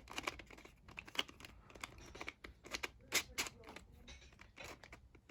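Plastic pieces of a 3D-printed ghost 2x2-Skewb hybrid puzzle clicking and clacking as its layers are turned by hand during a scramble: irregular clicks, the loudest a little past three seconds in.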